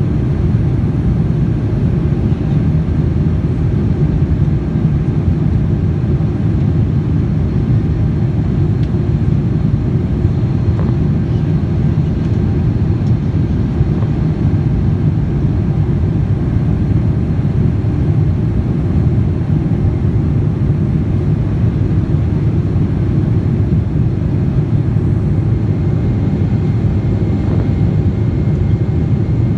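Steady, loud low cabin noise inside a Boeing 787-9 airliner: engine and airflow noise heard from a premium economy seat. The noise holds constant throughout.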